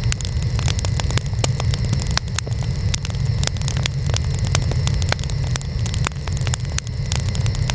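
Wood fire burning, with frequent sharp, irregular crackles and pops over a steady low rumble.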